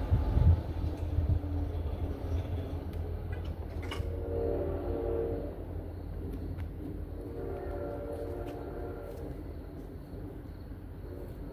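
NJ Transit Atlantic City Line train moving away from the crossing, its low rumble fading. The train's horn sounds three times in the distance, each blast a steady chord about a second and a half long.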